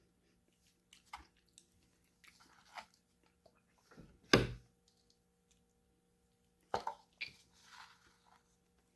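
Close-miked eating of crunchy snack food: a loud crunching bite a little past four seconds in and another near seven seconds, with soft crackly chewing and mouth sounds between.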